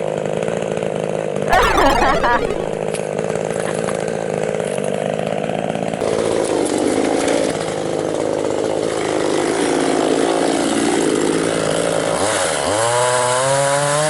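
Two-stroke chainsaw running and cutting wood during tree felling. It revs up sharply about a second and a half in and again near the end.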